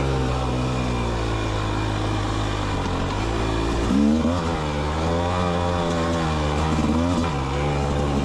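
Rieju MR300 Pro's 300cc two-stroke engine running while ridden, the rider rolling the throttle on and off. Its pitch rises about four seconds in and again near the end.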